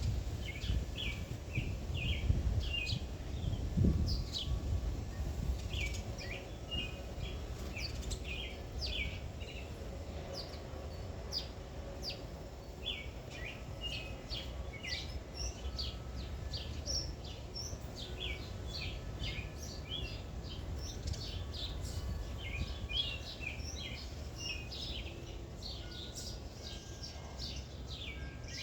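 Small songbirds chirping and twittering continuously, with many short, quick calls, over a low rumble that is heaviest in the first few seconds.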